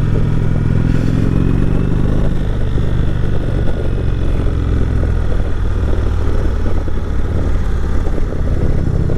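Indian Chieftain Dark Horse motorcycle engine running under way, its pitch climbing over the first couple of seconds and then holding steady.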